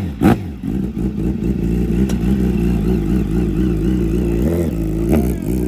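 Motorcycle engine running at a loud idle, with two sharp throttle blips at the very start and a couple of small revs near the end.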